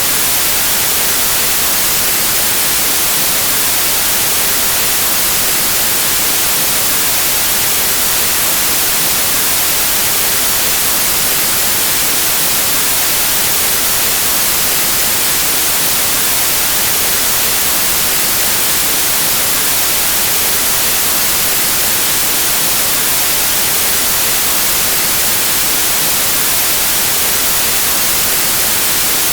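Steady white noise: an even, unbroken hiss with its energy strongest in the highest frequencies.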